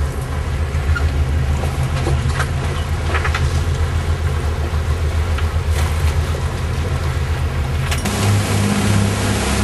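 Boat engine running steadily with a low drone and a few light clicks about two to three seconds in. About eight seconds in the drone changes abruptly to a different, stronger hum.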